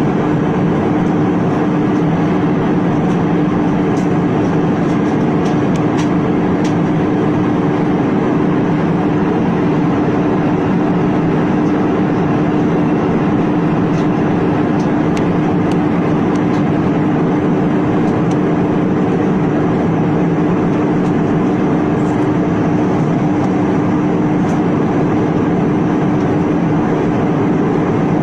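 Airliner cabin noise: the steady drone of the jet engines and rushing air, with a constant low hum and a few faint ticks early on.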